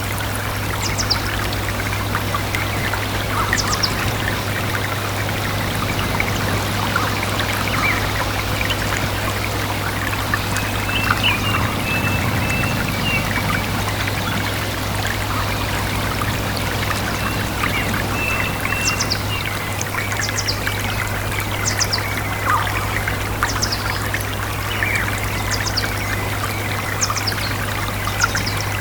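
A stream running steadily, with birds chirping over it: scattered quick, high, falling chirps and a few short runs of repeated notes. A steady low hum runs underneath.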